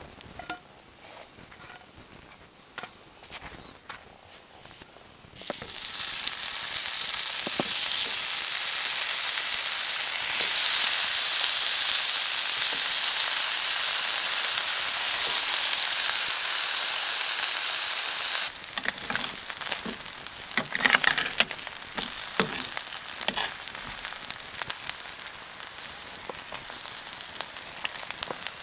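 Breakfast food frying in a hot pan: after a few light clicks, a loud sizzle starts suddenly about five seconds in as the food goes into the pan, then settles to a softer sizzle with crackles after about eighteen seconds.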